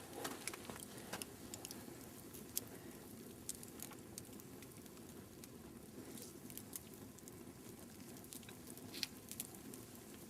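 Log campfire crackling faintly, with scattered irregular pops and ticks over a low hiss.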